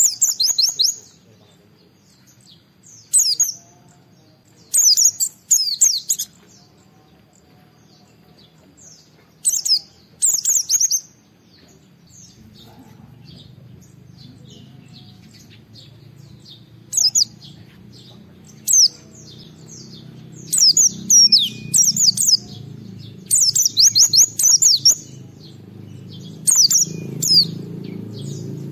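White-eye (pleci) singing in short bursts of rapid, high twittering, several phrases a few seconds apart that come closer together in the second half. A low background rumble grows louder toward the end.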